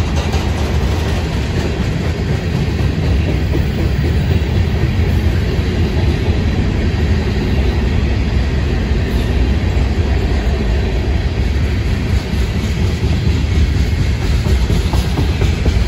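A freight train's cars rolling past: covered hoppers, a tank car and then refrigerated boxcars, their steel wheels running over the rails in a steady, deep rumble.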